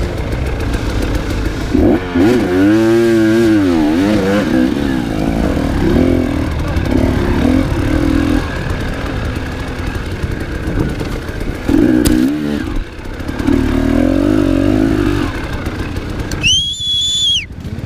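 Enduro motorcycle engine revving up and down under load, its pitch rising and falling repeatedly. Near the end a shrill, steady whistle sounds for about a second.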